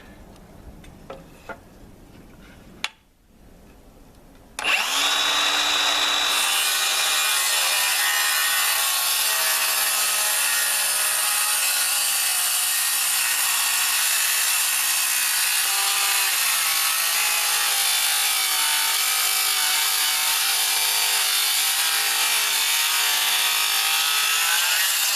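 Circular saw starting about four and a half seconds in and cutting steadily through a landscaping timber for about twenty seconds, its motor whine wavering under the load of the cut, then winding down near the end. A few light knocks come before the saw starts.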